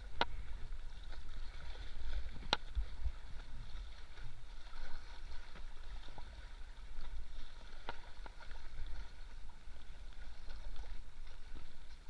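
River water rushing steadily through a whitewater stretch, with a few sharp knocks, about a quarter second in, at about two and a half seconds and near eight seconds.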